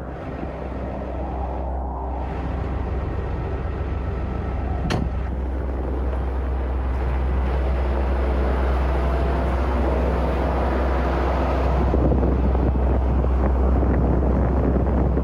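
Heavy vehicle engine running steadily and growing gradually louder, with a single sharp knock about five seconds in.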